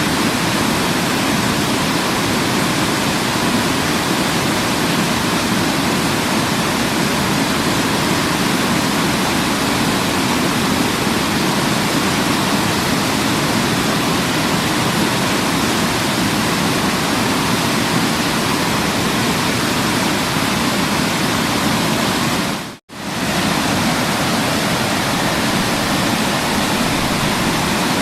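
Waterfall: a steady, even rush of falling water. It cuts out for a split second a few seconds before the end, then resumes unchanged.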